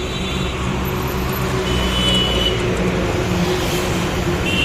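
Highway traffic of heavy trucks: diesel engines running with a steady low drone and tyre noise on the road, swelling slightly about two seconds in, with a brief thin high tone at the same time.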